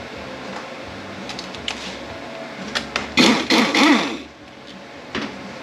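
Hand tools working on the transmission's 7mm fasteners: scattered light metallic clicks, then about three seconds in a louder rasping burst of about a second with a wavering pitch, and one more click near the end.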